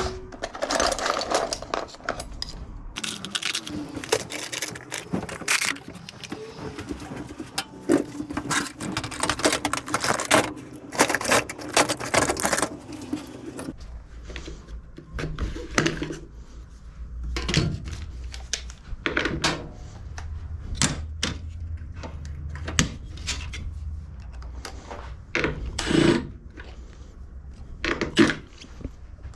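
Hand tools and mower parts clattering and knocking during repair work on the mower's front height adjuster. The first half is a busy, continuous rattle; after that come separate knocks and clicks, with a low hum underneath.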